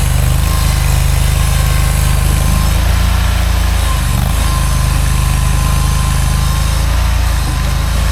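Mini skid steer's engine running steadily while working, its pitch wavering briefly about four seconds in.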